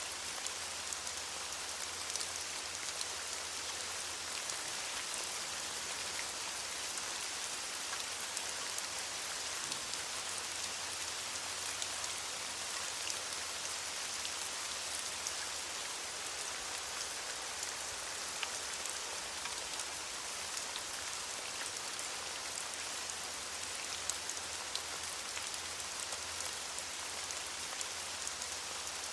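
Steady rain falling on leaves: a dense, even hiss of many small drop patters, unchanging throughout.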